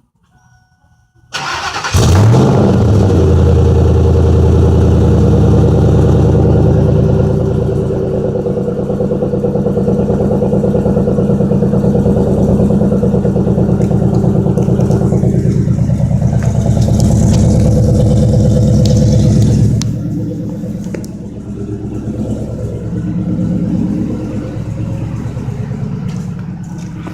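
2003 Ford F-150's 4.6-litre V8 through a 26-inch Cherry Bomb glasspack: the starter cranks briefly, the engine catches about two seconds in and runs at a loud, steady idle, getting quieter and less even about twenty seconds in.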